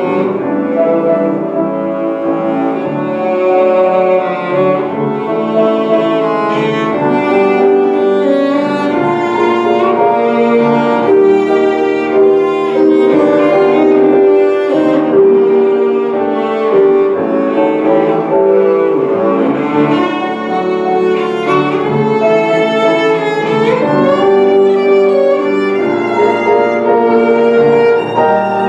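Live classical music: a bowed string instrument plays a melody of held notes and slides, with piano accompaniment.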